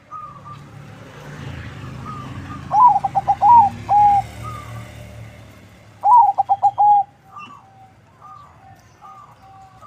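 Zebra dove (perkutut) cooing: two song phrases, each a quick run of stuttering notes ending in a held note, about three seconds in and again about six seconds in. Fainter short calls of other birds sound between them, with a low rumble under the first half.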